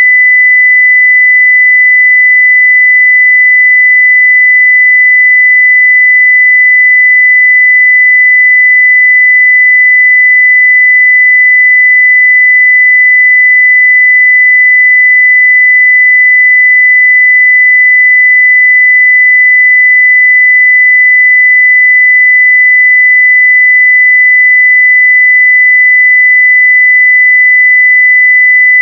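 A steady 2 kHz sine-wave test tone at full level (0 dB), one unbroken pure pitch with no change.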